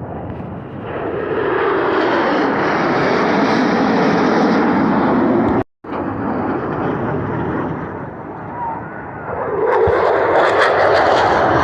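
Aircraft flying past overhead, a loud engine noise that builds about a second in and holds. After a brief break a little past halfway, it dips, then a second loud pass swells up near the end.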